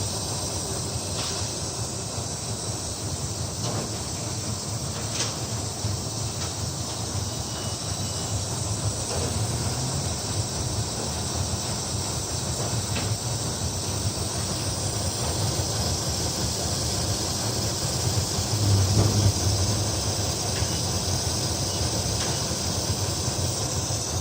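Steady hiss of rushing air over a low hum, with a few faint ticks and a brief louder swell in the hum about three quarters of the way through.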